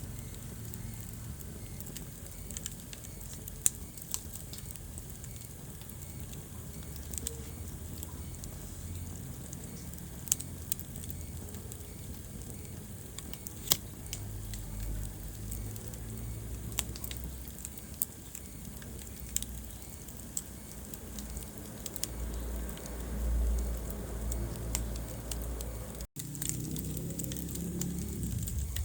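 Wood fire burning in a fireplace: irregular sharp crackles and pops, a few much louder than the rest, over a low steady rumble of the flames. The sound cuts out for an instant near the end.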